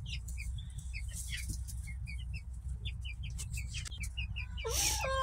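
Young chickens in a coop peeping: many short, high chirps over a low steady hum, with a louder, drawn-out call beginning near the end.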